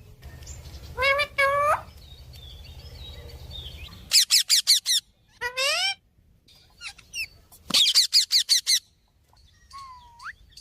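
Parrot calling in shrill cries that rise in pitch: two about a second in, then quick runs of about five calls near four seconds in and about seven near eight seconds in.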